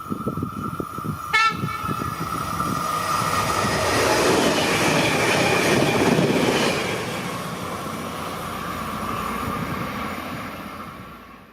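A GoAhead regional electric multiple unit passing, with a short horn blast about a second in, over a steady high whine. The rolling noise swells as the train goes by, then fades away before the sound cuts off.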